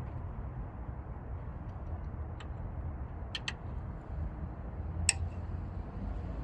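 A few short, sharp clicks of tools and parts being handled, two close together about three and a half seconds in and the loudest about five seconds in, over a steady low background rumble.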